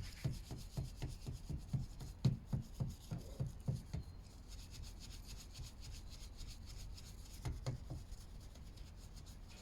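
Scrubbing with a brush in quick back-and-forth strokes, about three to four a second for the first four seconds, then a few more strokes near the end.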